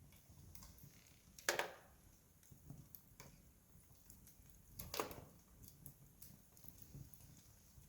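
Wood campfire crackling: scattered faint ticks, with two louder pops about a second and a half in and about five seconds in.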